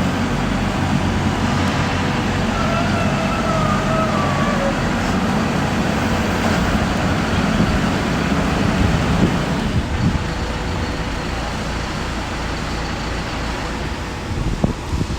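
Diesel-powered hydraulic solar pile driver running, its engine droning steadily. A wavering whine comes in about three seconds in and lasts a couple of seconds. The engine eases off slightly partway through, and there is a sharp knock near the end.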